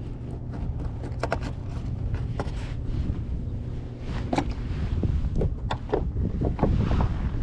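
Wind rumbling on the microphone, with scattered sharp clicks and knocks that come more often in the second half.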